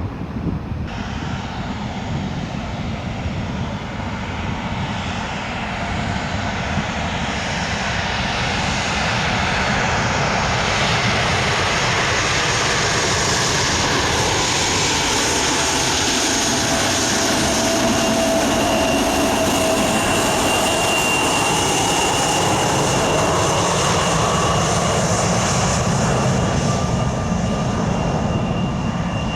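Jet airliner's engines roaring as it passes, the noise building over the first several seconds and then holding loud, with a high whine and lower tones that slowly shift in pitch.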